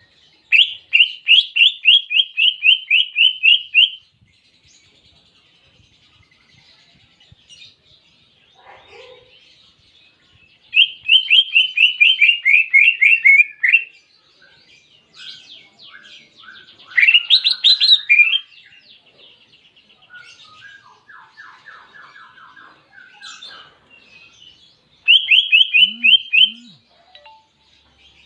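Cucak ijo (greater green leafbird) singing canary-like trills. There are four loud bursts of quickly repeated notes, each lasting one to three seconds, with softer twittering between them.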